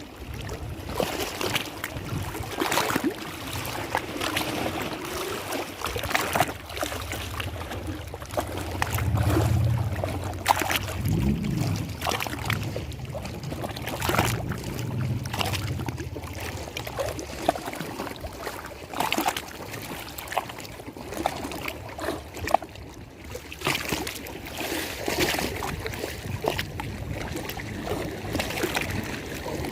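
Lake water lapping and slapping irregularly, with many small splashes. A low hum runs underneath from about six to seventeen seconds in.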